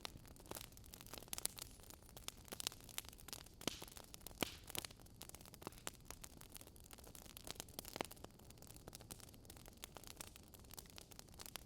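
Burning wood logs crackling, with scattered irregular pops and snaps over a soft, steady hiss of the fire.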